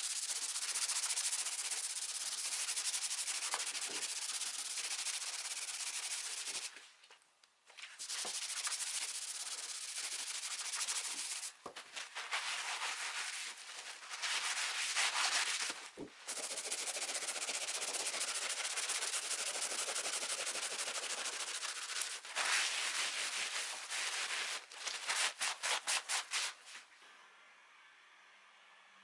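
Sanding of a wood surface: a steady abrasive hiss in long runs broken by short pauses, ending in several quick short strokes before it stops.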